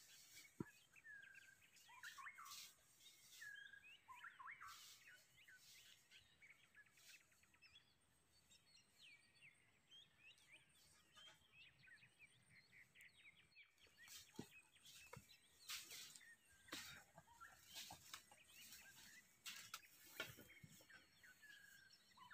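Faint outdoor ambience of wild birds calling: many short chirps and rising and falling calls, with scattered sharp clicks or rustles throughout.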